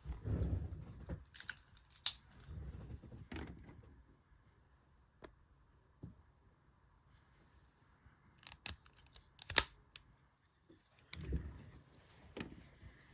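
Plastic toy robot parts being handled and snapped together: scattered sharp clicks, the loudest about nine and a half seconds in, amid low knocks and rustling from handling.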